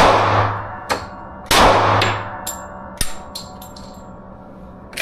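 Two handgun shots about a second and a half apart, each echoing off and fading over about a second, with a few lighter clicks between them.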